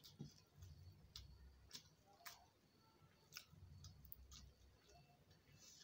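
Faint eating sounds: soft mouth clicks and smacks from chewing, scattered about once a second.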